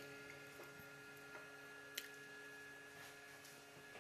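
Near silence: faint steady electrical hum of room tone, with one small click about two seconds in.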